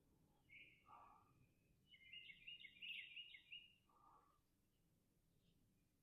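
Faint bird calls over near silence: a short high call near the start, then a rapid run of high chirps from about two seconds in, with a couple of softer lower notes.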